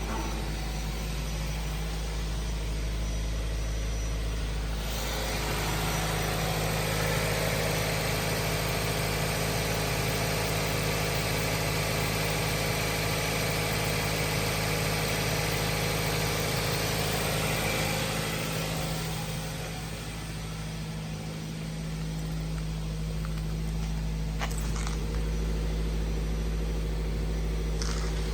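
2016 Lincoln MKZ's 2.0-litre four-cylinder engine running at a steady idle, with a brighter, louder stretch through the middle.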